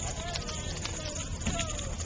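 Large bonfire crackling with frequent sharp pops, under the distant wavering voices of a crowd.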